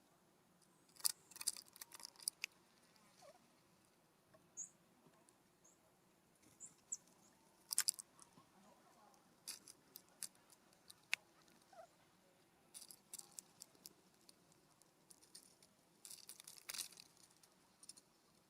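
Irregular sharp taps, clicks and rustles from birds pecking and scratching at seed on a ground feeder close to the microphone, coming in clusters. A few faint, short, high chirps sound between them.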